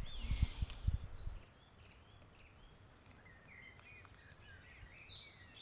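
Small songbirds singing, high thin phrases of falling notes coming one after another. A low rumble on the microphone sits under them for the first second and a half, then stops suddenly, leaving the birdsong faint.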